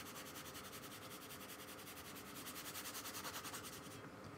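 Paintbrush loaded with gouache scrubbing across paper in quick, even strokes, a faint dry rubbing that stops near the end.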